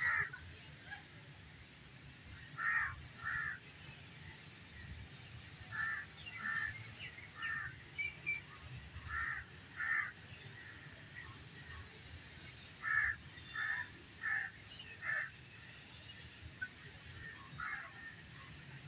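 Birds calling with short harsh caws, mostly in pairs, with a quicker run of four calls near the end, over a faint steady background hum.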